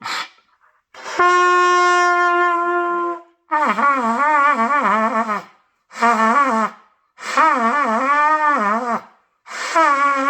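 Trumpet played without valves: one steady held note, then four shorter, lower notes whose pitch wobbles up and down as the player tries to slur between low do, sol and high do with the lips alone. The wavering comes from too much tension, in the player's words.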